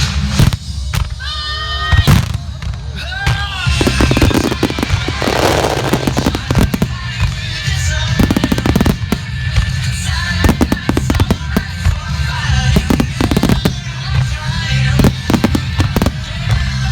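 Aerial fireworks shells bursting in rapid succession, with a burst of crackling about five seconds in, over a loud music soundtrack.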